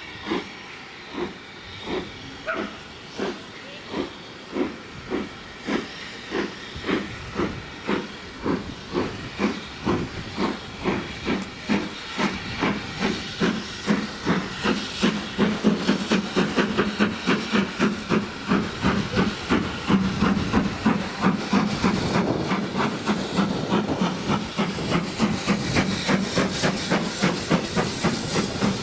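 Steam locomotive pulling away: its exhaust chuffs slowly at first, then quickens steadily to a fast beat as the train gathers speed, over a steady hiss of steam.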